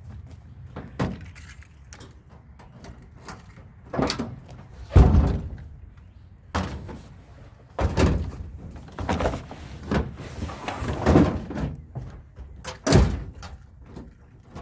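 A series of irregular thumps and rustles, the loudest about five seconds in and another near the end.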